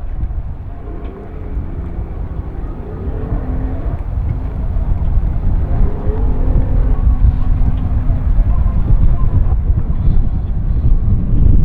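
A boat engine running at a launch ramp, under heavy wind rumble on the microphone.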